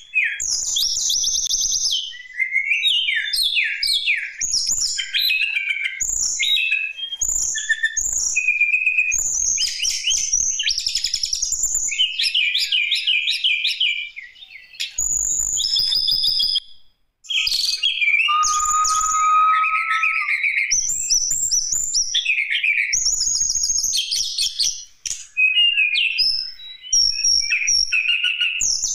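Tledekan gunung songbird singing a fast, varied song of chirps, trills and whistled notes in phrases broken by short pauses.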